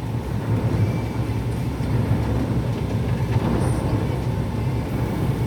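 Automated conveyor car wash running, heard from inside the closed car's cabin: a steady, muffled low rumble with a wash of hissing noise.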